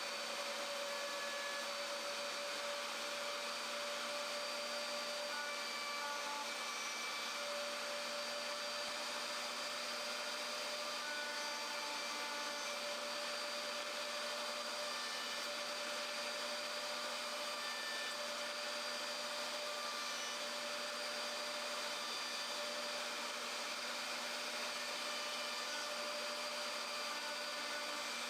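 An electric motor running steadily with a constant whine over a dense whirring hiss, unchanged throughout.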